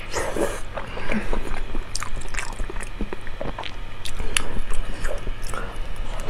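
Close-miked wet chewing, sucking and lip-smacking on slippery, gelatinous beef tendon in chili oil: a run of irregular soft clicks and smacks.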